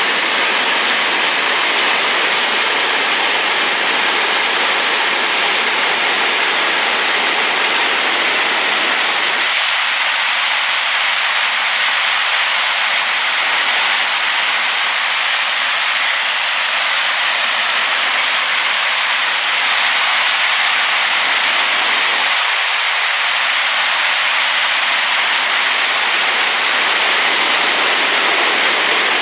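Waterfall swollen with rainwater pouring in a steady, loud rush of water. Its deepest part thins out for a stretch in the middle.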